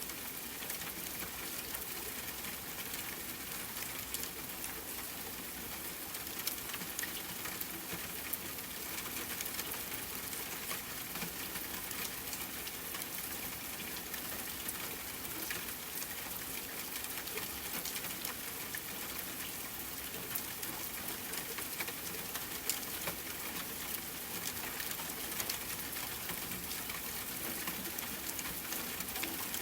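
Steady rain falling on a tent, with a dense scatter of small sharp ticks from drops and campfire crackling mixed in.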